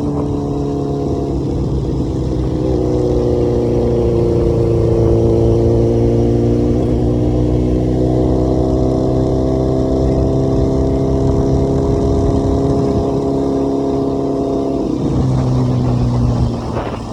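Motorcycle engine running hard at high revs. Its pitch sags slowly and jumps up about 3 seconds in and again about 8 seconds in, then falls away near the end.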